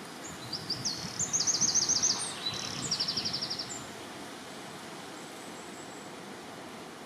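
A small songbird singing one short song of rapid, high trilled phrases for about three seconds, then only a steady background hiss.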